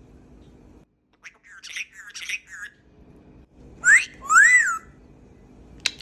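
Cape parrot calling: a burst of harsh squawky chatter about a second in, then two loud whistled notes, the second rising and falling in pitch. A few sharp clicks near the end.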